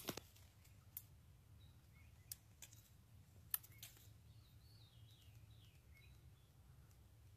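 Near silence in woodland, broken by a few faint sharp clicks and, about four seconds in, a faint bird song of several short falling notes.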